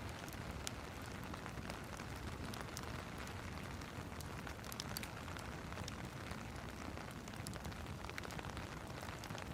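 Steady rain hiss mixed with the scattered sharp crackles of a wood fire burning in a fireplace.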